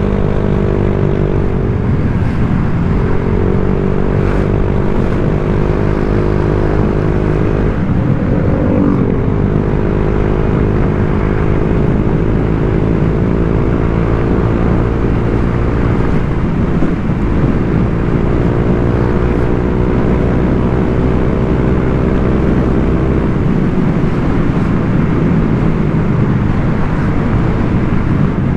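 Honda Vario 125 scooter's single-cylinder four-stroke engine running through an aftermarket 'standard racing' exhaust while riding, over steady wind and road noise. The engine note holds steady, shifting briefly about 2, 9 and 17 seconds in as the throttle changes.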